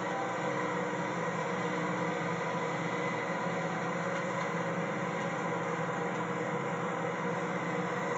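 Garbage truck's machinery running with a steady, even mechanical drone and hum.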